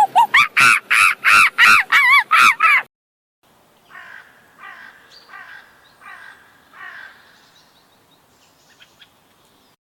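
A monkey's rapid, loud, pitched calls, climbing in pitch, run until about three seconds in and stop. After a short pause a crow caws five times, fainter and evenly spaced.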